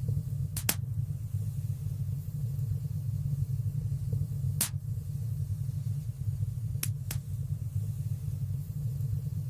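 Wood fire burning in a fireplace: a steady low rumble of flames with a few sharp crackling pops, a close pair near the start, one in the middle and another close pair later on.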